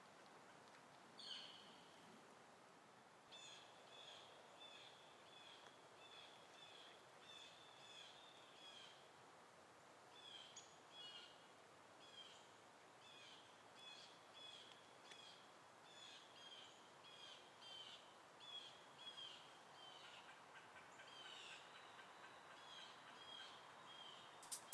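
Faint bird chirps, short notes repeating about twice a second over a quiet hiss, with one stronger call about a second in.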